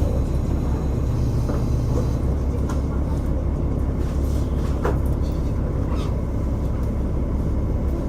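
KiHa 47 diesel railcar heard from inside the car: its diesel engine running with a steady low drone, with a few sharp clicks and knocks from the car.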